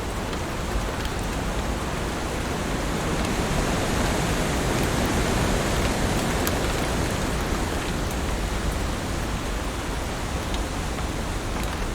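Heavy rain falling steadily, a dense even hiss of drops, swelling slightly in loudness midway through.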